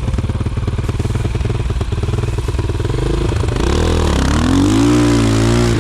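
Enduro motorcycle engine running with a steady low beat, then revved about three and a half seconds in: the revs rise and drop once, then climb again and hold higher near the end.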